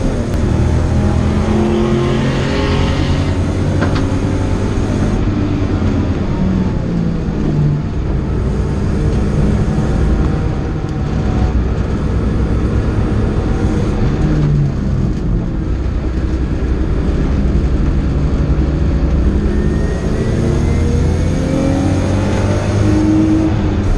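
A BMW E30 325i's 2.5-litre straight-six, heard from inside the cabin at racing pace. Its pitch climbs and drops back at each gear change, with a long rising pull near the end, over steady road and wind noise.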